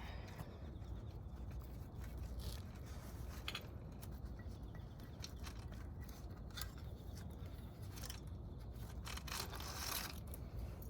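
Faint scraping and scattered light clicks of hand work, with a steady low hum underneath and a longer scrape about nine seconds in.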